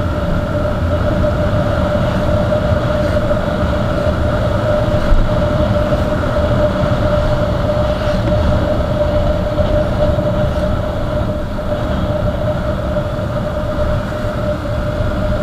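Motorcycle cruising at a steady speed: a constant engine drone over a heavy low rumble of wind on the microphone.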